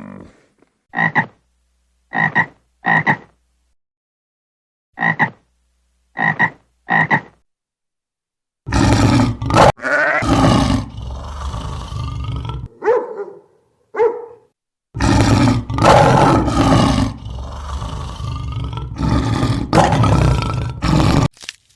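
Animal calls: six short calls in two sets of three, then a long run of loud, rough calls that begins about nine seconds in.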